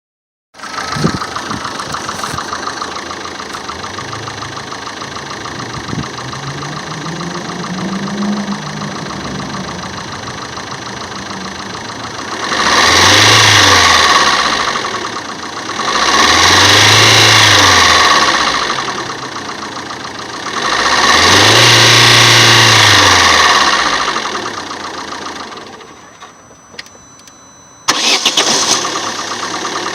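Opel Meriva A engine starting and idling, then revved three times, each rev rising and falling over about three seconds. Near the end it drops quieter for a couple of seconds, then comes back suddenly loud.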